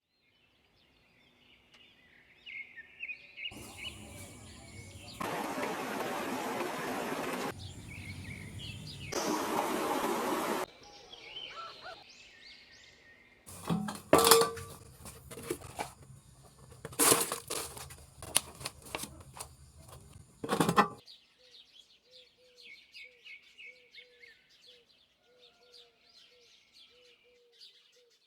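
Small birds chirping in the background, broken up by stretches of rustling noise and then a run of sharp knocks and clacks: the handling sounds of repotting a dieffenbachia, soil shifting and a plant pot being knocked and moved. In the last part the birds go on alone, with one short call repeating about twice a second.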